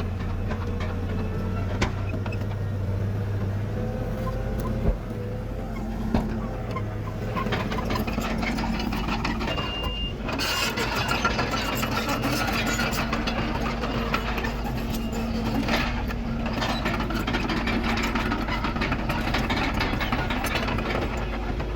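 Heavy diesel machinery working, a bulldozer and dump truck running steadily, with a few sharp metal clanks in the first few seconds. A short beep sounds just before halfway, and the engine noise grows louder and busier from about halfway on.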